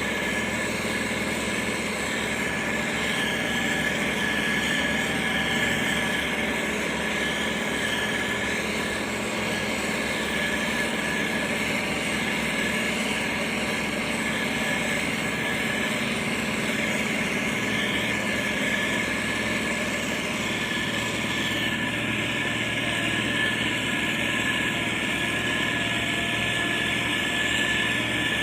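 Diesel engines of heavy road-building machinery, a motor grader and a road roller, running steadily, with a constant high whine over the engine drone.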